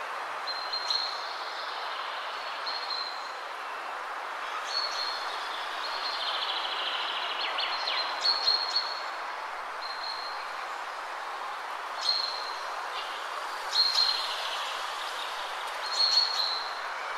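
Small birds chirping in short high calls every second or two, over a steady even rushing noise.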